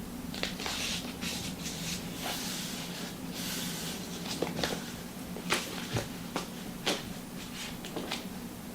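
Rustling and handling noises, then a series of about eight sharp clicks and taps, over a steady hiss of rain and a low hum.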